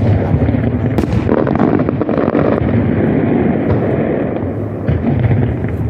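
Fireworks display going off: a dense, continuous run of bangs and crackling, with sharp reports near the start and about a second in.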